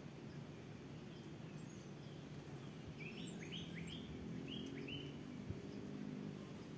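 A small bird calling a quick run of about six short chirps through the middle of the clip, over steady low background noise.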